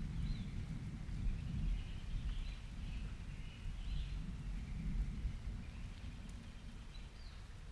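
Ambience recording of birds chirping, with short quick sliding notes scattered through, over a low rumble that slowly fades.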